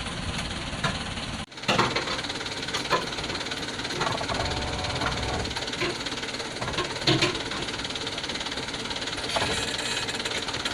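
Dump truck's engine running steadily, heard from inside the cab, with several sharp knocks and clunks as the truck bounces over a rough, slippery dirt track.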